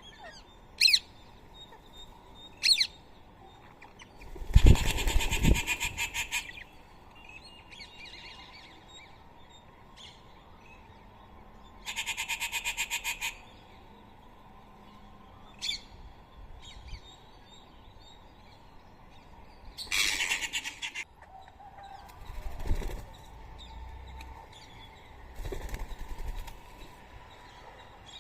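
Rose-ringed parakeets' wings flapping in several separate bursts of rapid fluttering as birds fly in and out at the feeding spot. A couple of very short, sharp calls come in the first few seconds.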